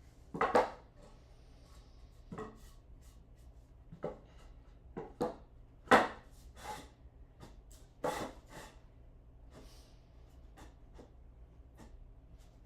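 Irregular knocks and clunks from wood and tools being handled, about nine in all, the loudest about half a second in and again about six seconds in.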